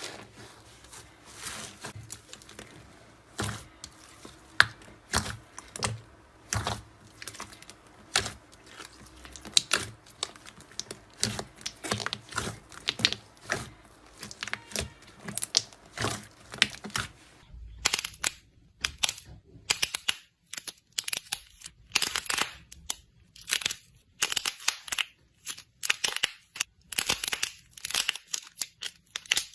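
Dense, uneven crackling and crunching from some soft material being squeezed and crushed, many sharp snaps close together. About 18 seconds in it changes to a brighter, crisper crackle.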